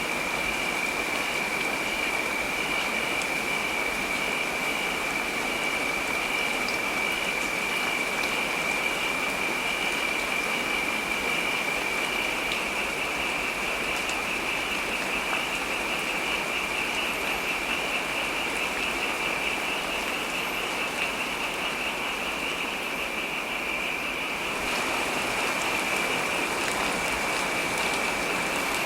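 Heavy rain falling steadily, an even hiss with a steady high-pitched tone running through it. About four seconds before the end the hiss turns a little brighter.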